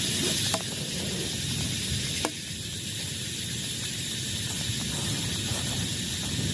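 Heavy rain falling steadily as an even hiss, with a few single drops ticking out of it.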